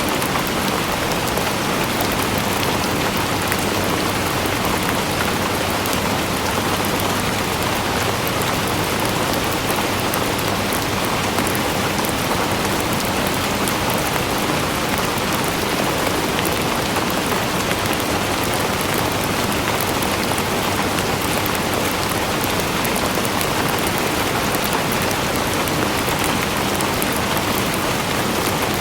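Steady, heavy rainfall pattering on a surface, an even hiss of many drops without a break.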